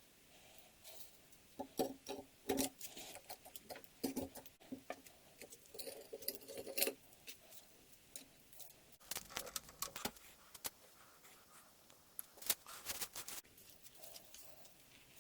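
Metal parts and hand tools being handled: irregular clinks, clicks and scrapes, a few sharper knocks among them, with a quieter stretch near the end.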